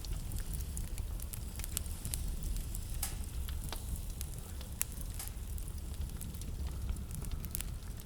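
Wood fire crackling in a fireplace: irregular sharp pops and snaps over a steady low rumble and a soft hiss.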